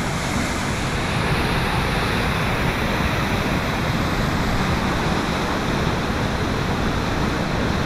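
Waterfall on a jungle river rushing steadily, an even wash of falling water.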